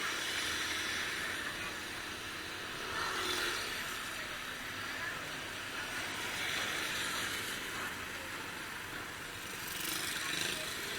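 Steady hiss of rain, with vehicles swishing past on the wet road, their noise swelling and fading three times: about three seconds in, near the middle, and near the end.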